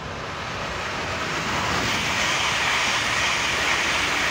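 A train passing close alongside the platform at speed, its wheels on the rails and the rush of air making a loud, steady noise that builds as it comes level.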